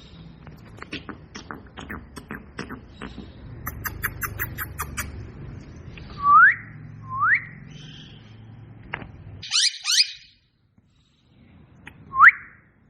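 Parrot whistling: short rising whistle notes, two close together about six and seven seconds in and another near the end. A run of rapid clicks comes in the first few seconds, and a quick burst of high squeaky chirps about ten seconds in.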